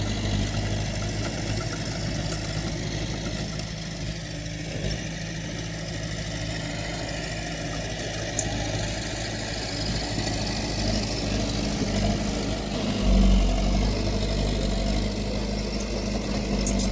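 Heavy earthmoving machine's diesel engine running steadily, getting louder about thirteen seconds in.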